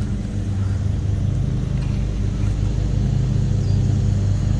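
A steady, loud, low motor hum that holds one pitch throughout.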